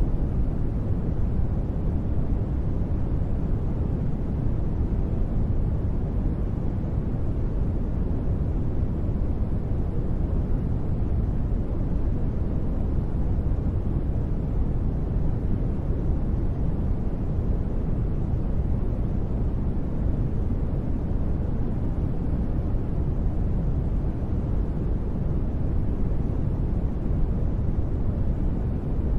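Continuous sleep noise of the kind sold as white noise, perfectly steady with no sudden sounds. It is deep and rumbling, most of its weight in the low pitches with little hiss on top, closer to brown noise than to a bright hiss.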